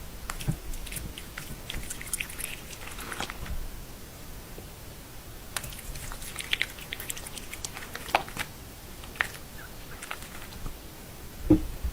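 An animal chewing and biting food, with scattered short clicks and crunches. A louder low thump comes near the end.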